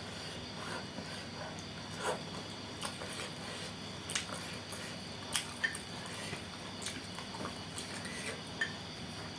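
Close-miked eating of wet noodles with bean sprouts: soft wet chewing and squishing sounds, with a few sharp clicks of a utensil against the bowl.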